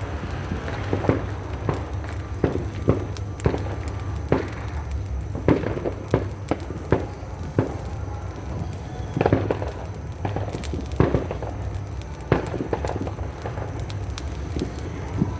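New Year firecrackers and fireworks popping and cracking at irregular intervals, sometimes several close together, over a steady low rumble.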